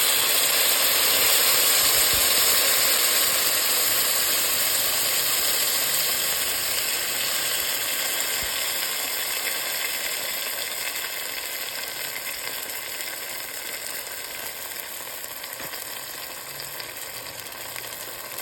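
Sauce sizzling and crackling in a hot pan just after it is added. It is loudest at the start and dies down steadily as it cools.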